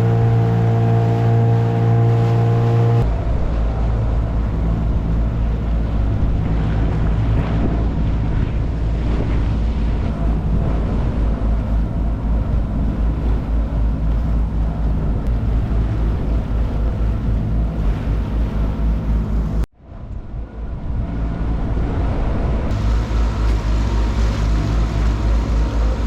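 Boat engine running under way, with water and wind noise. It starts as a steady hum, changes after about three seconds to a low, rapid throb, and cuts out abruptly for a moment about two-thirds of the way through.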